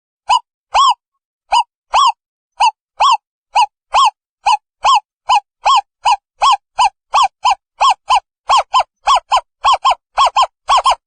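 Owl calling: a series of short, arched hoots around 1 kHz, speeding up from about two notes a second to about four.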